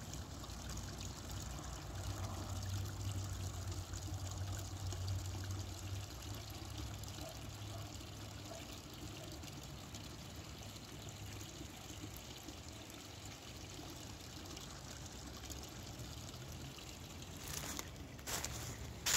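Creek water trickling steadily over its bed. Near the end, a few footsteps on the forest floor.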